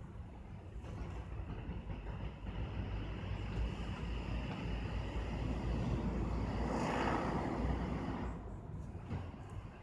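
A vehicle passing by: a low rumble that builds gradually, is loudest about seven seconds in, then fades away.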